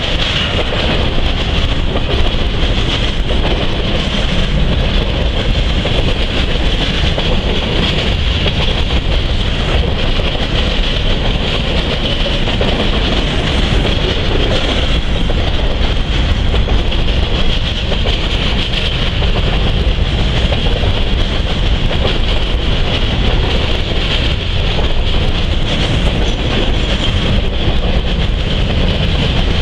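Freight train of covered grain hopper cars rolling steadily past: the continuous loud rumble and rattle of steel wheels on the rails, with a steady high hiss over it.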